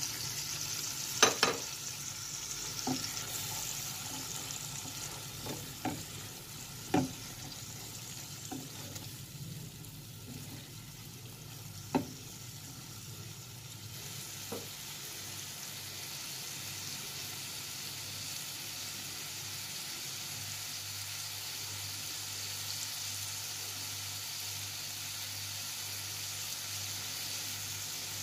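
Fried onions and powdered spices sizzling steadily in oil and a little water in a nonstick frying pan as the masala is cooked down, with several sharp knocks against the pan in the first fifteen seconds as it is stirred.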